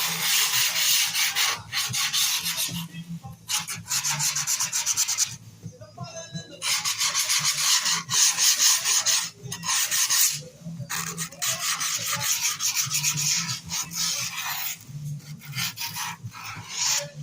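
Grip tape being rubbed and filed along the edge of a skateboard deck after trimming, in long rasping strokes of one to three seconds with short pauses between them.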